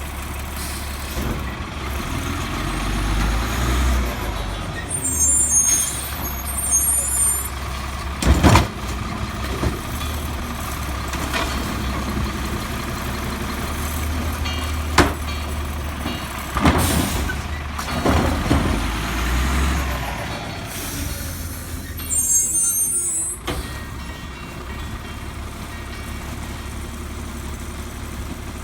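Heil Multi Pack garbage truck running, its diesel engine swelling several times, with several sharp bangs and two spells of short air hisses.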